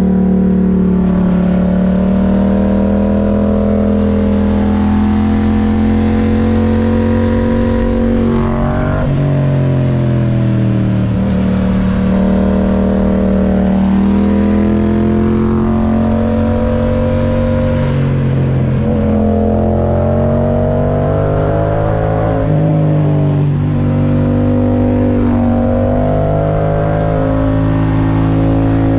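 Yamaha MT-07 parallel-twin engine through an Akrapovic titanium exhaust, pulling steadily up through the revs and then dropping sharply, several times over, as the bike is ridden through bends.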